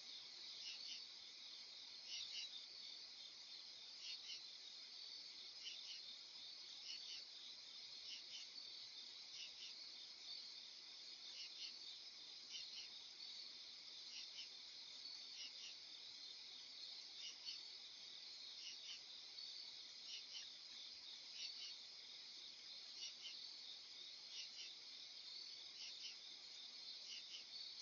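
Faint insect chorus, likely crickets: a steady high-pitched trill with short chirps repeating throughout.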